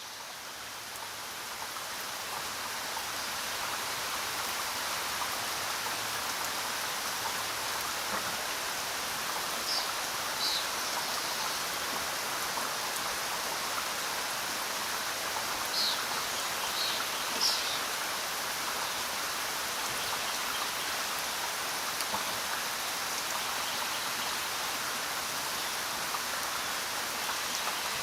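Steady rain falling, an even hiss that fades in over the first few seconds, with a few short high chirps about midway.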